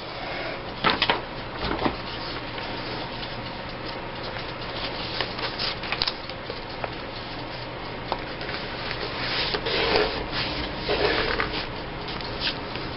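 Paper rustling and rubbing as magazine cutouts are handled and pressed down on a table, with occasional small taps; the rustling grows busier about ten seconds in.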